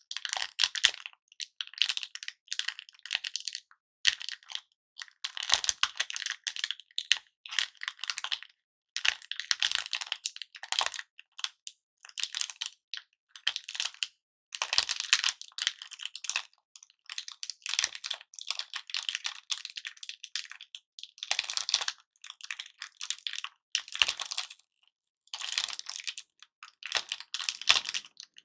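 Hard-candy lollipops and their pieces being handled and crushed, giving bursts of rapid small clicks and crackles with short pauses between them.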